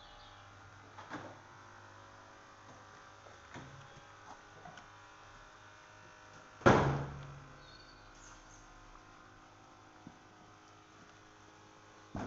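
A single loud knock a little past halfway, fading over about a second, with a few faint clicks before and after over a low steady hum.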